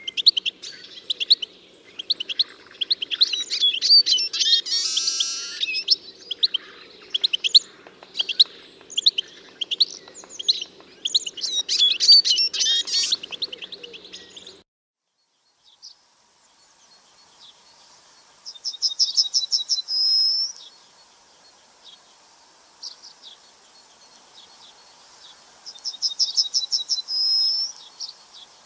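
Songbirds chirping and calling busily over a low steady hum. After a brief break, a different bird sings a short rapid trill ending in a slurred note, twice, about seven seconds apart.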